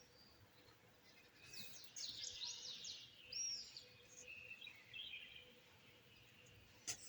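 Small birds chirping and singing faintly: a run of quick, high, falling chirps starts about a second and a half in, followed by softer short trills. There is a sharp click near the end.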